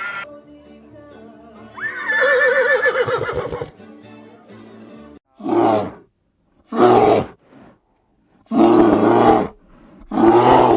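Tiger roaring four times in short, separate roars, each under a second long. Before them a wavering, pitched animal call sounds over background music.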